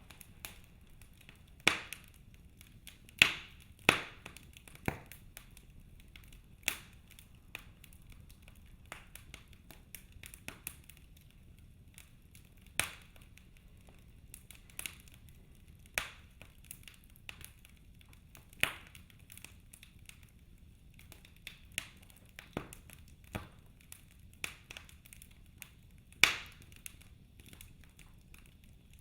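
Wood fire in a fireplace crackling: irregular sharp pops and snaps of burning logs, a dozen or so louder ones scattered among many faint ticks, over a low steady hiss.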